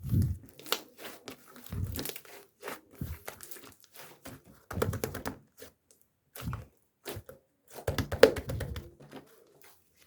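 Irregular crinkling and rustling, with soft low thumps every few seconds and a sharper knock about eight seconds in.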